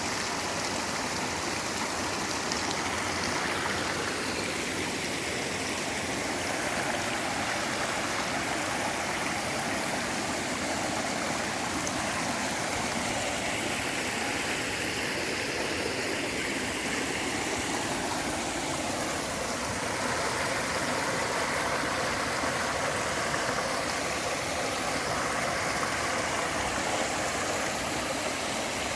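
Clear mountain stream flowing, a steady rush of water with no break.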